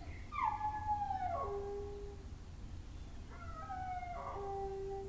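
A dog howling: two long drawn-out howls, each sliding down in pitch and then holding, the second starting about three seconds in.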